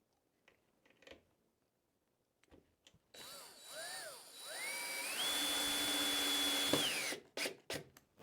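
Power drill driving a screw: the trigger is pulsed twice, the motor whining up and back down each time, then held so the motor runs up to a steady high whine for about two seconds before stopping. A few light clicks of handling come before it.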